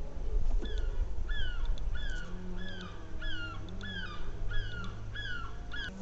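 An animal calling over and over: about ten short falling notes, a little over half a second apart, over a low rumble.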